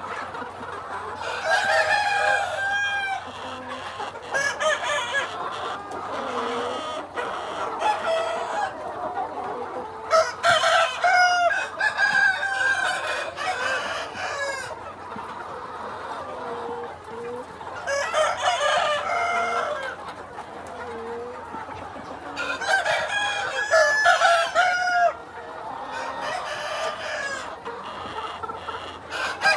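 Free-range chickens clucking continuously, with crowing standing out about five times, each crow lasting one to three seconds.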